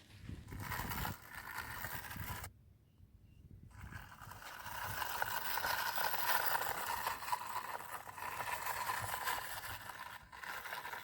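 Small toy tractor working in sand and mud: a gritty scraping noise with a faint whine. It breaks off for about a second a couple of seconds in, then runs on.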